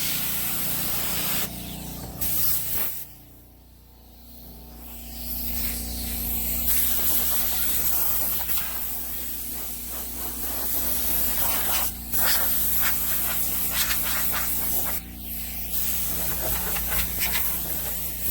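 A steady hissing rush of air or spray over a low hum, breaking off and starting again abruptly a few times.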